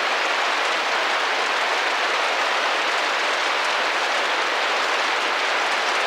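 Steady rain pattering against a window, a dense even hiss of drops.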